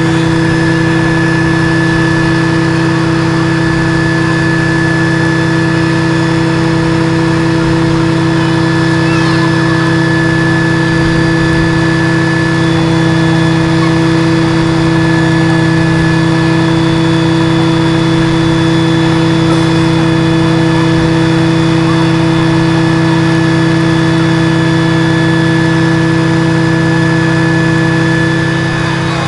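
Scania aerial ladder platform fire truck's diesel engine running at a steady, unchanging speed, a constant hum with a thin high whine above it.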